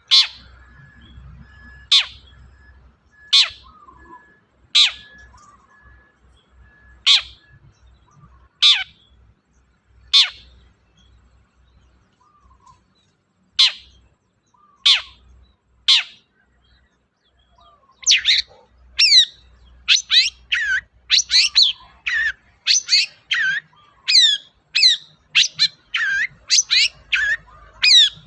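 Long-tailed shrike (cendet) calling: a single sharp, harsh note about every one and a half seconds. After a short pause about two-thirds of the way in, it breaks into a fast run of scratchy, chattering song notes.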